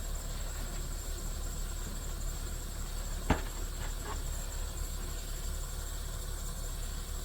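Steady low rumble and hiss with a thin high whine, broken once by a short sharp knock about three seconds in; the sound cuts off abruptly near the end.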